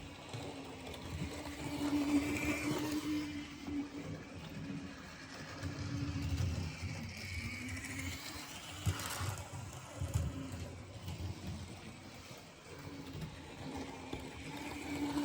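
Model train running on track: the locomotive's small electric motor gives a steady whine that wavers in pitch as it goes, over a low rumble and clatter of wheels on the rails.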